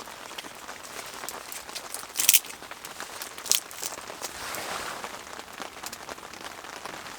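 Steady rain on tent fabric, with a few sharp crackles or rustles a couple of seconds in and again about a second later.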